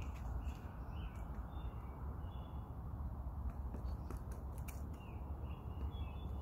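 Small birds chirping in short high calls, several a second, over a steady low rumble of outdoor background noise, with a few faint clicks about four to five seconds in.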